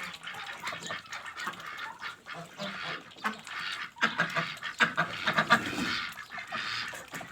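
Domestic ducks calling, many short, harsh calls overlapping one another.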